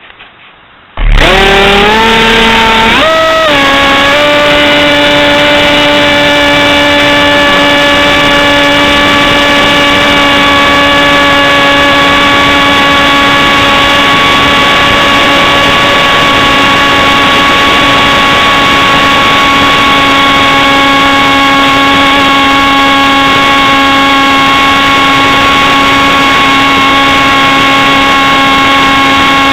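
RC model jet's engine starting up about a second in, its pitch climbing over a couple of seconds, then running loud at one steady high pitch.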